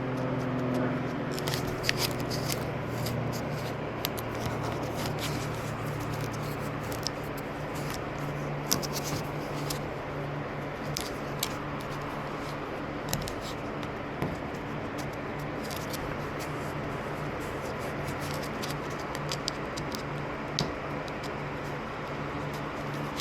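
Scattered light clicks and scrapes of hand work over a steady low hum.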